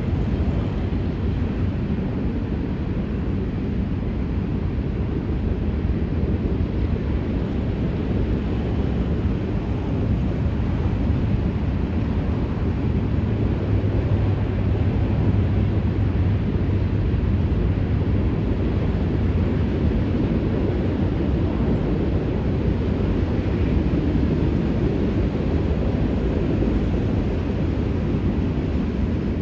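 A long freight train of empty grain hopper cars rolling past: a steady low rumble of wheels on rail.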